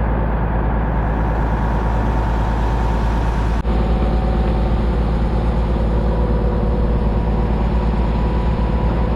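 A Putzmeister 32-metre concrete boom pump truck's engine running steadily with a deep, even rumble. There is one short break about three and a half seconds in.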